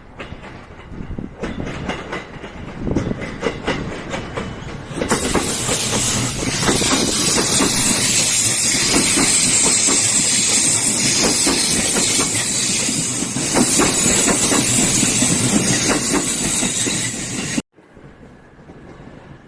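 A train passing close by, its wheels clicking rhythmically over the rail joints. About five seconds in it grows into a loud, steady rushing hiss as the cars go past. The sound cuts off suddenly near the end.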